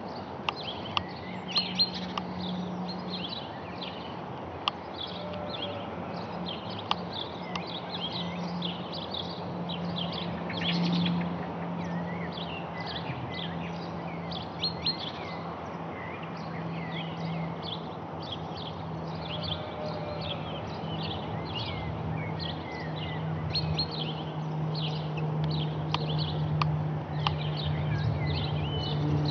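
Small songbirds chirping and twittering continuously over a steady low drone that slowly sinks in pitch, with a few sharp clicks in the first couple of seconds.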